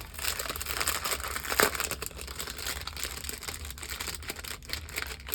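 Crinkling and rustling of cash budget envelopes being handled and slid into a wallet, a string of small crackles with one sharper snap about a second and a half in.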